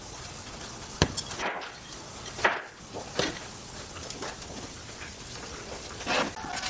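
A few scattered knocks and brushing noises of wooden pieces being handled and tapped in woodworking, with the sharpest knock about a second in.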